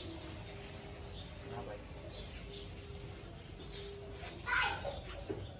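An insect chirps steadily outside: a high, evenly pulsed call repeats about five times a second. A short voice-like sound comes about four and a half seconds in.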